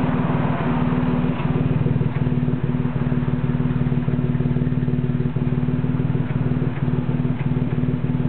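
Jaguar XK150's straight-six engine idling steadily, its exhaust sounding through the muffler, with a few faint high ticks now and then.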